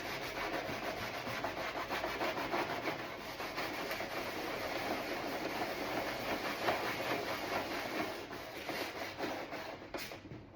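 Emery cloth rubbed rapidly back and forth over a plastic door panel, scuffing off the factory lacquer so paint will grip. The rubbing is steady, then eases off and stops near the end.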